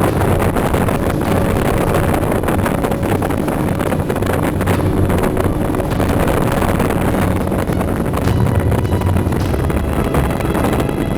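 Strong storm wind blowing across the microphone, a dense steady rush with a heavy low rumble.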